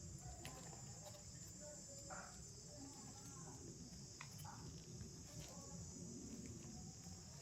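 A faint, steady, high-pitched chorus of insects trilling, over a low rumble, with a few short faint calls.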